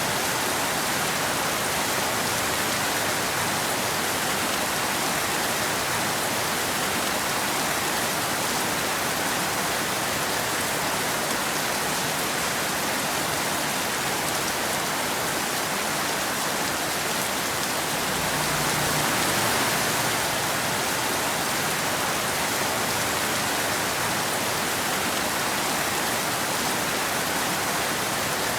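Steady rain falling, an even hiss, swelling slightly with a low rumble about two-thirds of the way through.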